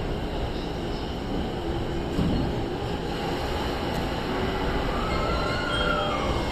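A 70-000 series electric train pulling away from a station platform: a steady running rumble, with a motor whine that rises and then dips in pitch over the last second or so.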